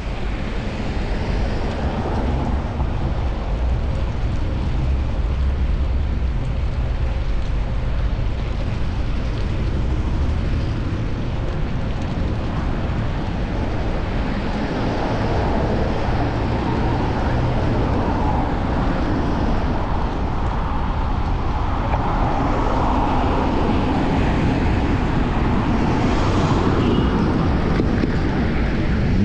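Steady rush of wind on a chest-mounted action camera while cycling, mixed with the road noise of city traffic, which swells as vehicles pass in the second half.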